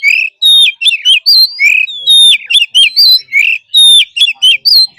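Oriental magpie-robin singing its wild-type song loudly: short phrases of clear whistles and quick up-and-down slurred notes, repeated over and over with hardly a pause.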